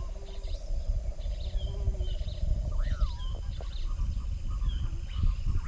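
Rainforest birds calling: a swooping whistle that rises and falls, repeated about every three seconds, with short higher chirps and a buzzing trill through the first half. A steady low rumble runs underneath.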